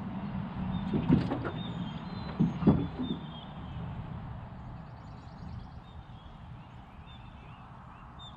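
Birds chirping in the background over a low outdoor rumble, with two louder thumps about one and two and a half seconds in.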